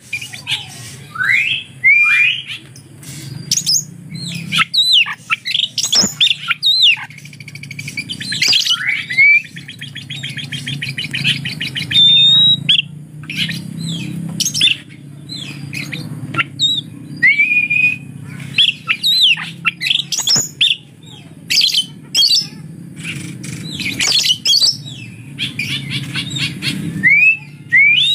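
Oriental magpie-robin (kacer) singing a long, varied song of whistles, rising slurred notes, a rapid trill and sharp short notes, including mimicked lovebird calls. A steady low hum runs underneath.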